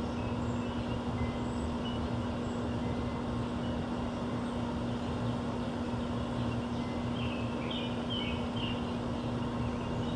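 Steady low mechanical hum with a constant drone and background rumble of outdoor urban noise, and a short run of about five quick bird chirps around two-thirds of the way in.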